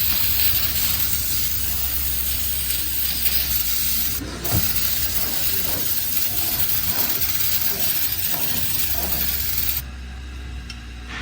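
Aerosol brake cleaner spraying onto a transmission clutch drum to clean it: a steady loud hiss that breaks off briefly about four seconds in, then resumes and cuts off suddenly near the end.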